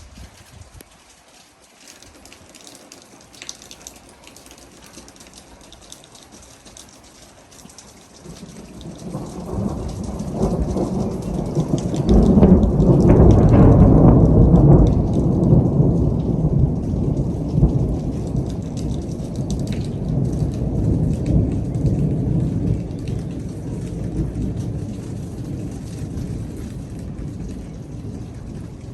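Rolling thunder over falling rain. A deep rumble builds about eight seconds in, is loudest near the middle, then slowly dies away while the rain goes on.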